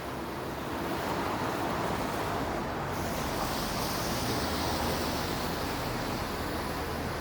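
Steady hiss of traffic on a wet city street, tyres swishing on rain-soaked pavement, with a brighter, higher hiss coming in about three seconds in.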